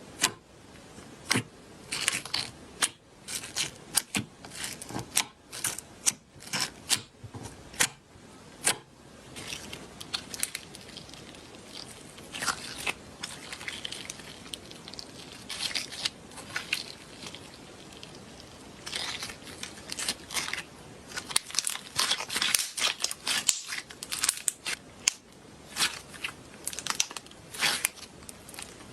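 Slime being handled, pressed and pulled apart, giving off irregular clusters of sharp clicks and crackling pops, with a quieter stretch in the middle.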